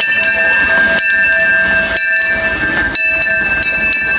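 Disneyland Railroad steam train, with several steady high-pitched tones held over a hiss and brief breaks about once a second.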